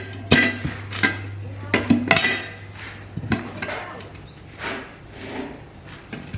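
Metal tools and parts clinking and knocking against each other, with a run of sharp ringing strikes in the first three seconds and softer ones after. A steady low hum fades out about three seconds in.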